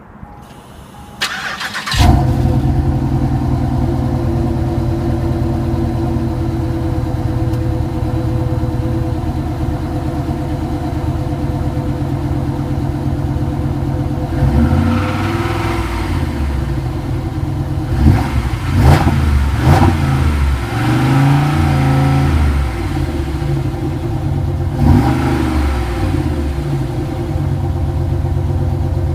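2007 Pontiac Grand Prix GXP's 5.3-litre V8 through its stock exhaust, before a muffler delete: it is cranked and catches about two seconds in, then idles steadily. In the second half it is revved in several blips that rise and fall.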